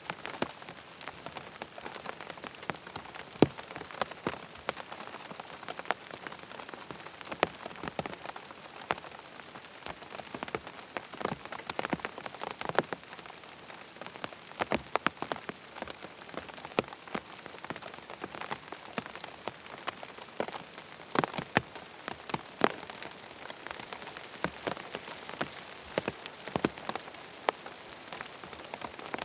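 Steady rain falling, with frequent sharp, irregular ticks of drops striking a hard surface.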